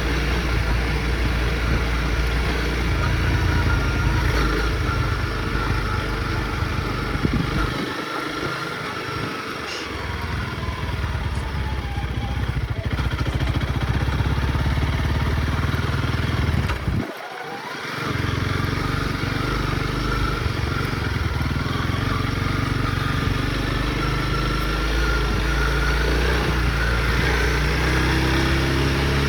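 Honda CRF dirt bike engine running steadily with a loud low rumble. The rumble drops away briefly twice, about eight and seventeen seconds in.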